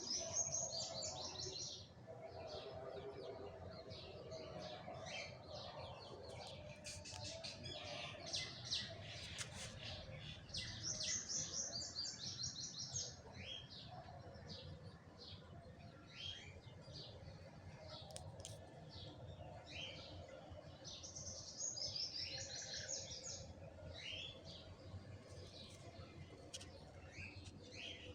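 Birds chirping, with scattered short high chirps and a rapid high trilled phrase about every ten seconds.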